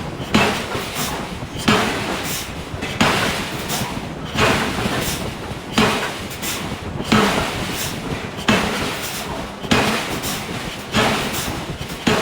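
Giant hydraulic forging hammer striking steel in repeated heavy blows, about one every 1.3 seconds, over steady machinery noise.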